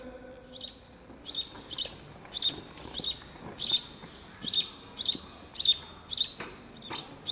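A small songbird chirping: short, sharp chirps repeated steadily, a little under two a second.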